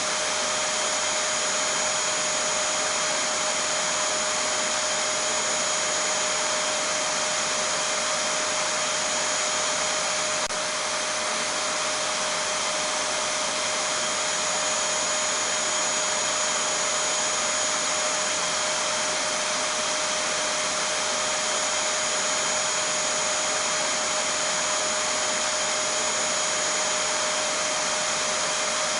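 Vacuum cleaner running steadily: an even rushing noise with a constant whine on top that does not change.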